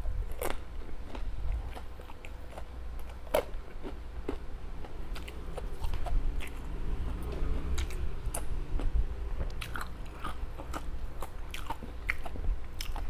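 Close-miked chewing and biting of homemade fish balls and veggie balls, with scattered wet clicks and crunches.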